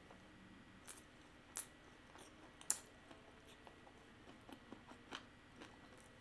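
Faint, sparse wet mouth clicks from someone chewing a big mouthful of salmon sushi roll with closed lips, the sharpest click about two and a half seconds in.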